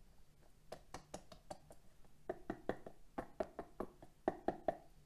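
A run of light, quick taps and clicks of small hard objects, about four or five a second in three short clusters, several with a brief ringing tone.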